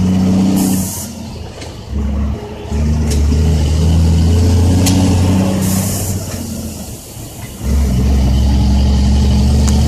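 Caterpillar C10 inline-six diesel in a loaded dump truck running hard, with two drops in engine sound, a second or so in and about six seconds in, each starting with a short hiss of air, as gears are shifted before the engine pulls again.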